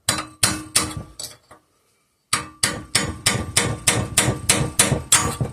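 Hammer striking a punch against the threaded muffler lock ring on a 5 hp Briggs and Stratton engine, driving the ring tight, in sharp metallic taps. A handful of taps come in the first second and a half, then after a short pause a steadier run of about four taps a second.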